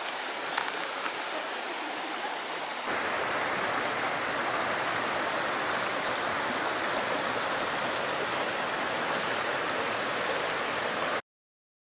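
Steady rushing of flowing water. It jumps louder about three seconds in and cuts off abruptly near the end.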